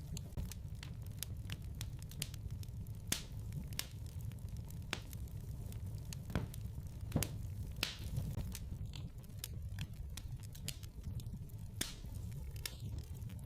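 Fire burning in a fireplace, crackling with many irregular sharp pops, several a second, over a low steady rumble.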